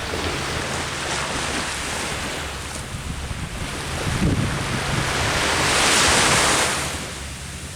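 Ocean waves breaking and washing up the beach, one wave surging to its loudest about six seconds in and then receding. Wind rumbles on the microphone underneath.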